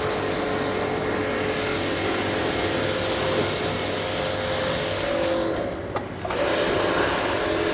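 Pressure washer running steadily at a car wash, its hiss of spray with a steady motor hum, and the spray cutting out briefly about five and a half seconds in before starting again.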